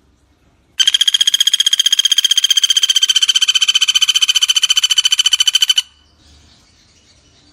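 Common flameback woodpecker (pelatuk bawang) giving one long, very rapid rattling trill of about five seconds at a steady pitch, starting about a second in.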